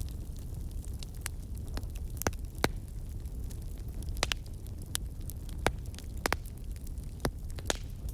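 Wood fire in a fireplace crackling, with sharp, irregular pops scattered over a steady low rumble of the flames.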